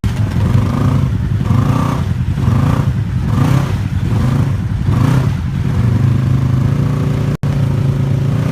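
Polaris RZR side-by-side engine revving up and falling back again and again, about once a second, typical of a stuck machine trying to drive free. It then holds at a steadier speed near the end.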